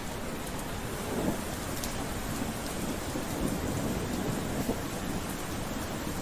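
Steady rain falling, with a few faint drop ticks and a low rumble underneath through the middle.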